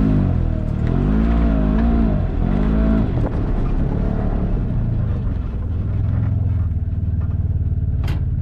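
Side-by-side UTV engine revving up and down in quick swells for the first few seconds, then running at a steadier, lower pitch. A single sharp click comes near the end.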